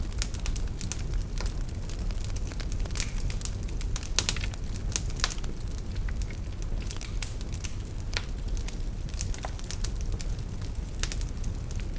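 Wood fire burning in a fireplace: a steady low rumble of flames with frequent irregular crackles and pops, a few louder ones scattered through.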